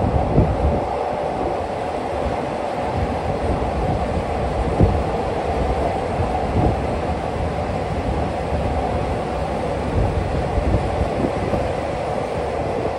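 A passenger railway carriage running on the track, heard from the open side of the train: a steady rumbling running noise from the wheels on the rails. A few irregular sharp knocks come through it.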